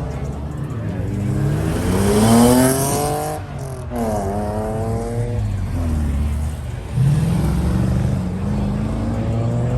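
Car engine accelerating hard, its pitch climbing steadily, with a brief break about three and a half seconds in before it climbs again. About seven seconds in, another engine starts up loudly and runs on.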